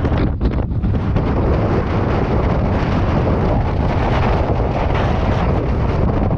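Strong wind blowing hard and buffeting the microphone: a loud, unbroken rush with a deep rumble.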